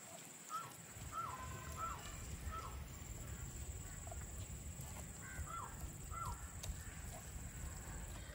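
A bird calling in short falling notes: four in quick succession, then three more a few seconds later, over a steady high-pitched whine.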